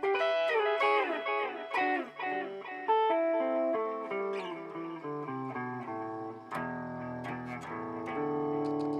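Electric guitar played through a BOSS DD-8 digital delay pedal in Warp mode. A run of quick picked notes with echoes piling up behind them is followed, about six and a half seconds in, by a low chord that rings on, held by the delay.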